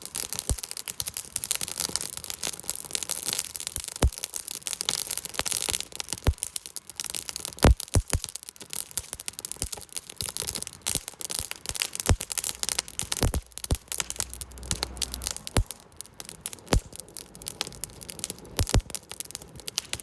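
Wood campfire crackling: many irregular sharp pops and snaps over a steady hiss of burning.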